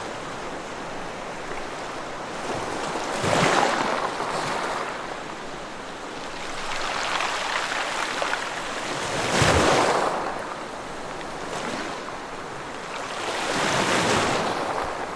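Ocean waves breaking on a shore: a steady wash of surf with three waves swelling and crashing about every five seconds.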